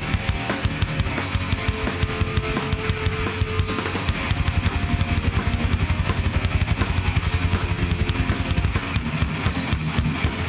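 Live heavy metal band playing an instrumental passage without vocals: distorted guitars over drums with fast, evenly repeated kick-drum strokes.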